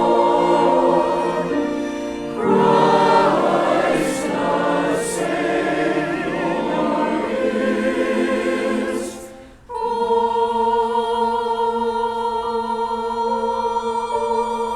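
Choir singing with orchestral accompaniment. It breaks off briefly a little under ten seconds in, then long held chords follow.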